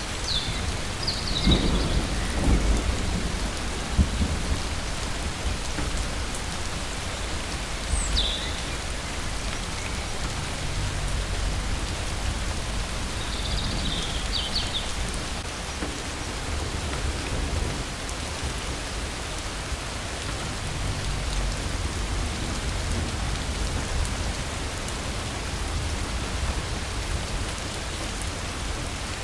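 Steady rain falling, with thunder rumbling about two to four seconds in. A bird gives a few short high chirps now and then over the rain.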